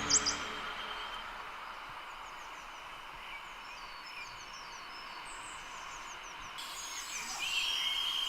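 Outdoor ambience of many small birds chirping over a steady soft hiss, with a steady high insect-like whine coming in near the end.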